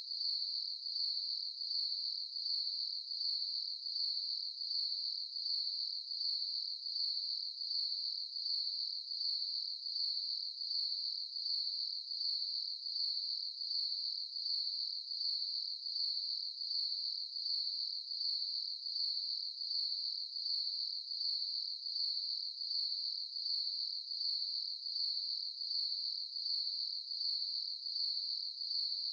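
A chorus of crickets chirping: a steady high-pitched trill that swells and fades in an even rhythm, about three pulses every two seconds.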